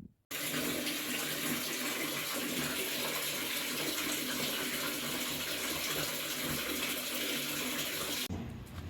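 Water running steadily from a tap, starting suddenly and cutting off abruptly near the end.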